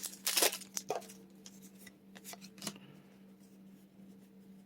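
Foil trading-card booster pack wrapper crinkling for about the first second, then soft clicks and rustles of cards being handled.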